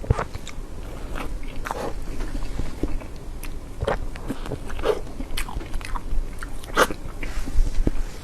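Close-miked eating of soft cream cake: wet chewing and biting with irregular soft mouth clicks.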